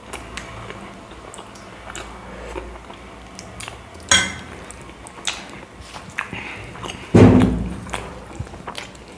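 Close-up eating noises as chapati is eaten: quiet chewing and handling with scattered small clicks, a sharp clink about four seconds in and a heavier thump about seven seconds in.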